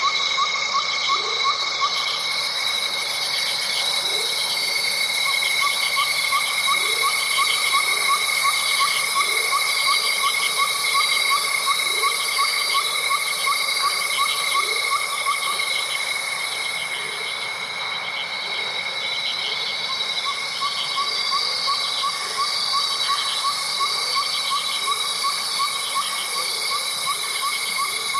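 Night chorus of insects and frogs: steady high trilling over a fast pulsed call that drops out twice, with short rising chirps about once a second.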